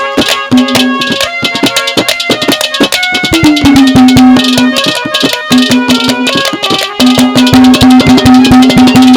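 Instrumental interlude of Haryanvi ragni folk music: fast hand-drum strokes under a melodic instrument holding long, steady notes.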